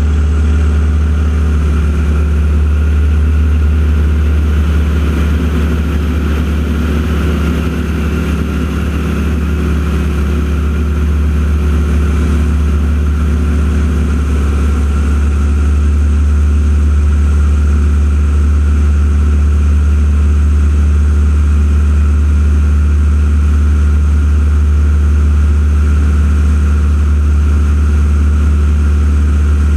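A loud, steady engine drone with a strong low hum. It holds almost unchanged throughout, swelling slightly for a few seconds near the start.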